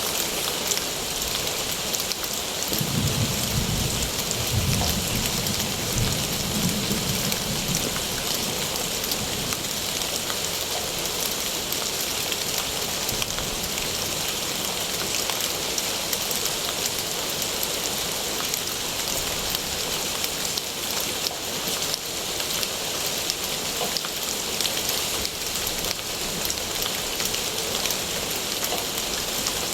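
Steady rain falling, an even hiss of drops on surfaces. A low rumble comes in about three seconds in and fades by about eight seconds.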